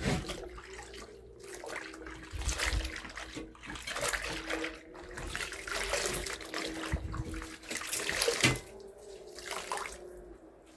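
Running water splashing, swelling and easing irregularly.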